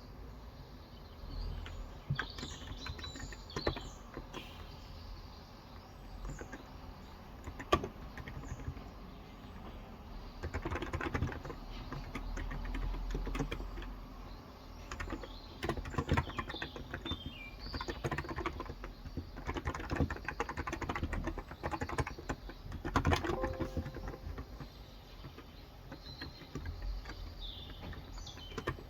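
Typing on a Cox Endeavour electro-capacitive tenkeyless keyboard with 35 g switches: runs of key presses a few seconds long with pauses between. Birds chirp briefly in the background, near the start, in the middle and near the end.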